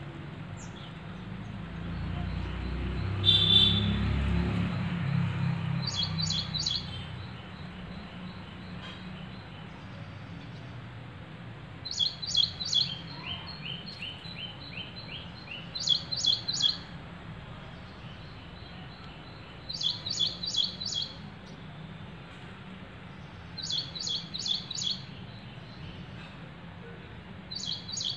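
A bird repeating a short phrase of three to five quick, high chirps about every four seconds. A low rumble swells and fades in the first few seconds.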